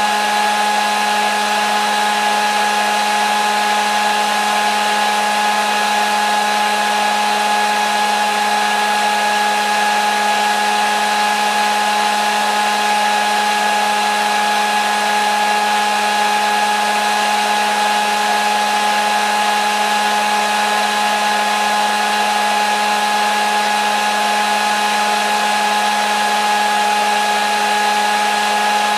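Hair dryer running continuously at a steady speed: an even rushing of air over a constant motor hum and whine, with no change in speed or pitch.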